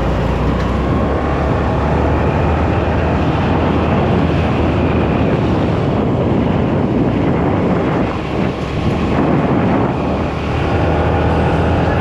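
Steady wind rush on the microphone of a moving motorcycle, with engine and road noise underneath.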